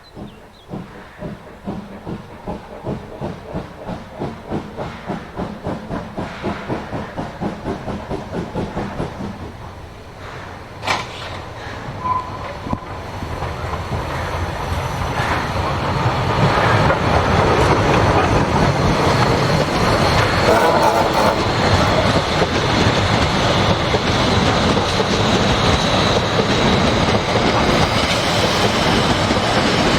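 Train approaching with regular beats about three a second that grow steadily louder, a sharp click and a brief tone about halfway through, then passing close with a loud, steady rumble and rattle of wheels.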